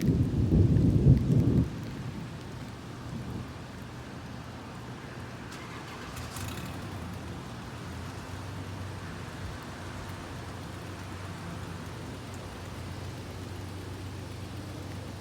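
Thunder rumbling loudly for the first second and a half, then steady rain falling.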